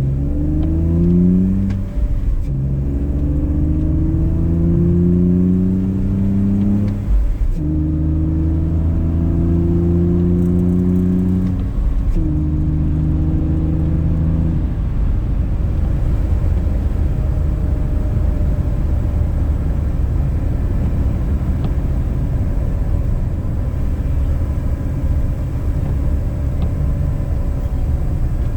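BMW E46 inline-six engine with a K&N cold-air intake pulling through the gears: the engine note rises, drops abruptly at three upshifts and climbs again. After the last gear it settles into a steady low road rumble with no clear engine note.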